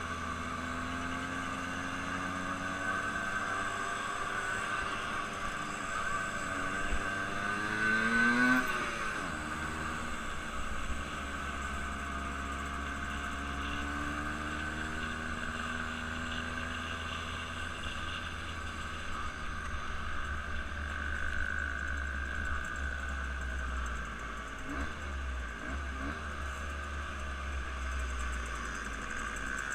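Engine running under way, its pitch climbing for the first eight seconds or so, then dropping suddenly and running steadily after that.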